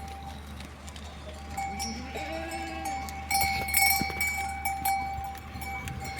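Livestock bleating once, about two seconds in, with bells clinking a second later.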